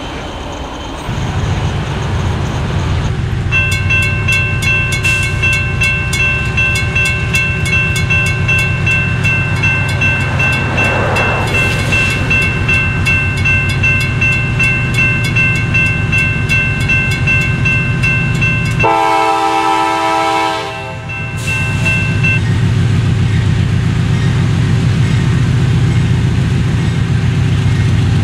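Rapid, steady ringing of a grade-crossing bell over the low rumble of an approaching CSX diesel freight locomotive. About two-thirds of the way through, the locomotive's air horn sounds one long blast of about two seconds, and the engine rumble builds after the bell stops.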